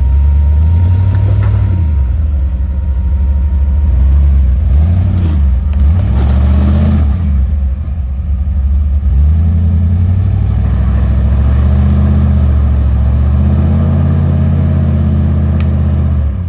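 A four-wheel-drive vehicle's engine running on the trail, its revs rising and falling several times as the throttle is worked.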